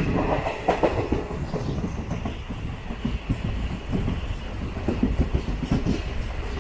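Passenger train running along the track, with a steady rumble and irregular clicking and knocking of the wheels over rail joints.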